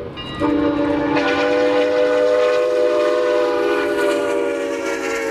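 Steam locomotive whistle sounding a long chord of several notes, after a brief break at the start; the pitch dips slightly about a second in.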